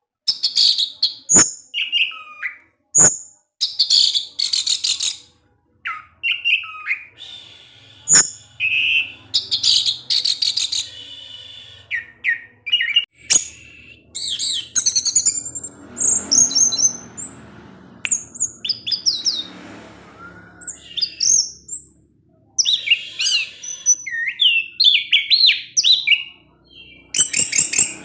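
An orange-headed thrush (anis merah, Geokichla citrina) singing a long run of short, varied whistled and warbling phrases with brief pauses between them.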